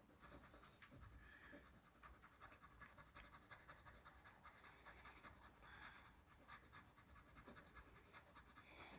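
Faint scratching of writing on paper, a steady run of tiny strokes.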